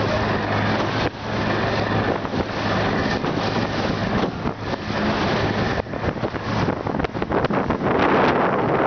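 Strong, gusting wind buffeting the microphone in rough, uneven blasts, with a faint low steady hum underneath.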